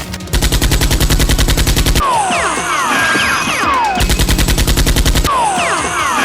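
Dubbed-in automatic gunfire sound effect: two bursts of rapid shots, each followed by a stretch of falling, whistling whines.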